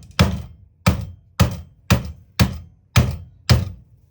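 A steady series of about eight heavy knocks, roughly two a second, as the reciprocating saw's housing is struck repeatedly while the repair is worked back into place.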